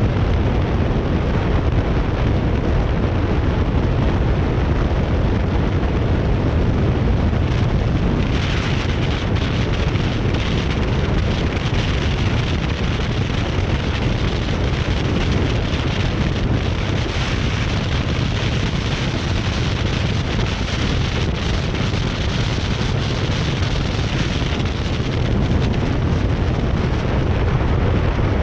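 Heavy wind buffeting the camera's built-in microphone: a loud, steady low rumble, with a brighter hiss joining about eight seconds in and fading out near the end.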